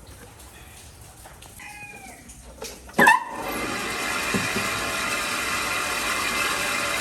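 A power tool starts up about three seconds in with a sharp jolt and then runs steadily at speed. Before it, a few faint high chirps.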